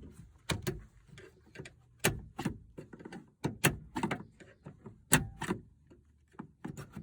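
Irregular clicks and taps of a small hand tool working at a manual window crank handle on a truck door, prying at its retaining clip.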